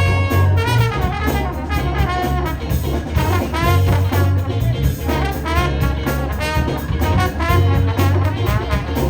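Live soul band playing a funky groove on drums, bass guitar, organ and guitar, with a trombone soloing over it.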